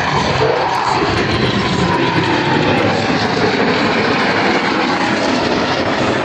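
Jet aircraft flying by: loud, steady engine noise, with a whine that slides down in pitch over the first few seconds as the jets pass.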